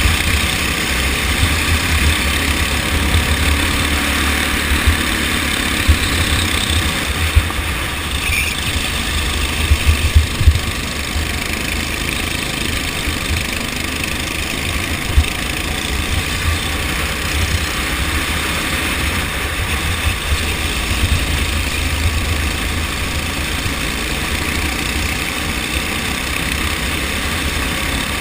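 Racing kart engine running steadily under way, with a heavy low rumble and a few sharp knocks about six to ten seconds in.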